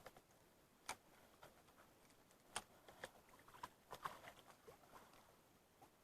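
Near silence, with a few faint, sharp clicks and ticks scattered through it and a short cluster of them about four seconds in.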